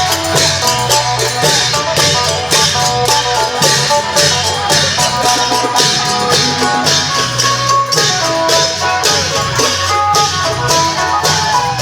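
Isan long-drum (klong yao) band music: a plucked phin lute plays a melody over drums and cymbals keeping a steady, driving beat.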